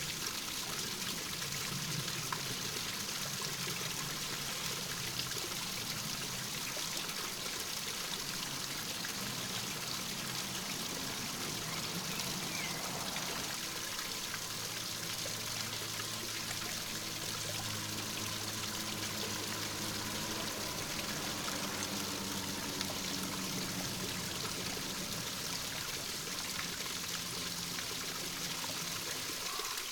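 Small stream of water trickling and flowing steadily.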